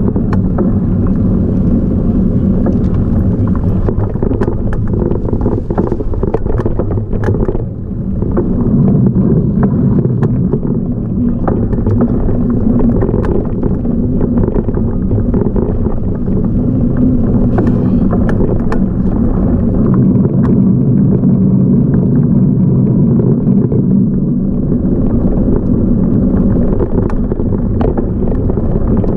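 Continuous low rumble of a moving bike ride, with scattered rattles and knocks throughout and a brief drop in level about seven and a half seconds in.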